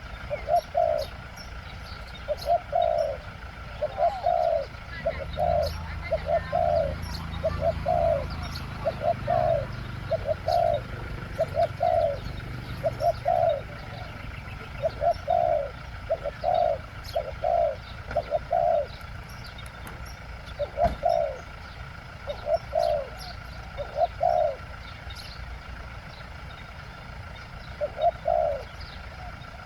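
Spotted doves cooing, low notes repeated in runs of about one to two a second, with a longer pause about three quarters of the way through. Small birds chirp faintly in the background, and a faint low hum runs through the first half.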